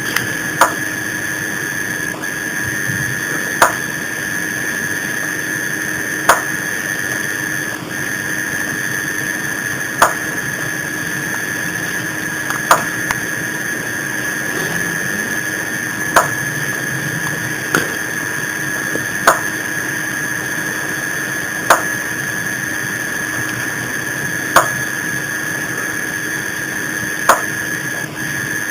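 Sharp single taps of unknown origin, one every two to four seconds at an uneven pace, over a steady background hum with a constant high whine.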